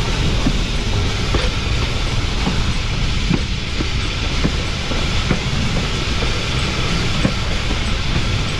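Pilot-truck wheels of Cumbres & Toltec narrow-gauge steam locomotive 488 rolling on rail: a steady rumble with scattered clicks and knocks from the rail joints.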